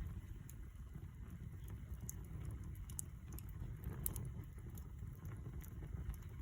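Wood campfire burning, with scattered small crackles and pops over a steady low rumble.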